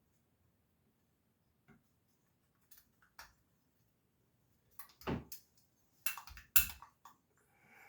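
Small carburetor parts being handled and fitted back on by hand: scattered clicks and light knocks of metal parts, a few faint ones early and a louder cluster from about five seconds in, the loudest near six and a half seconds.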